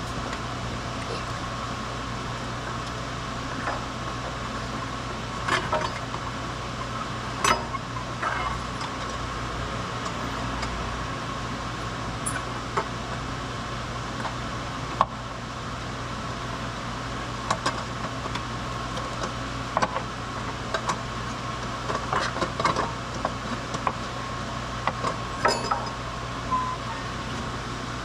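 Scattered light metallic clinks and clicks from hand tools and engine parts being handled, over a steady hum.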